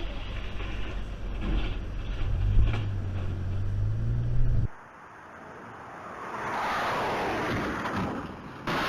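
A motor vehicle's engine drone with road noise, as a dashcam records it, cutting off abruptly about halfway through. What follows is a quieter stretch of rushing noise that swells up, like wind on the microphone.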